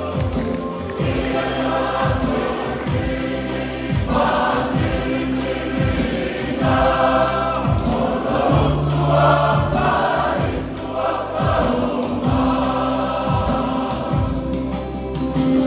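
Samoan church choir singing a hymn in harmony over a band, with a bass line and a steady drum beat.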